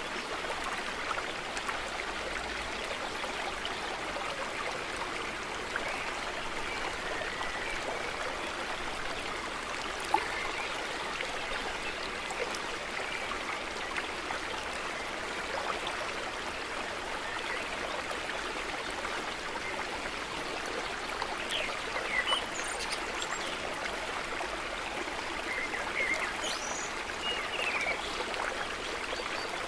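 Small stream running steadily, water trickling and burbling. There is a brief sharp tick about ten seconds in, and a few faint high bird chirps in the second half.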